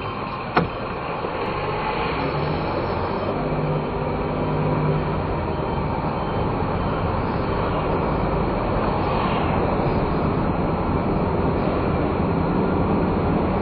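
Engine and road noise heard from inside a non-turbo kei car while it drives, with a steady rumble that grows louder over the first couple of seconds as it picks up speed. There is a single sharp click just after the start.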